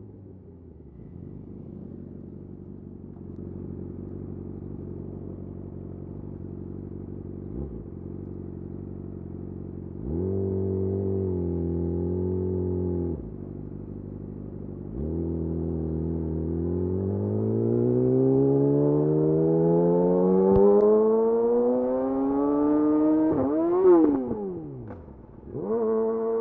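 Yamaha YZF R6's inline-four engine through a de-catted Akrapovic slip-on exhaust, ticking over low at first. About ten seconds in, the throttle is held briefly, then the revs climb steadily for several seconds. Near the end comes a quick rev-and-drop, and it pulls away again.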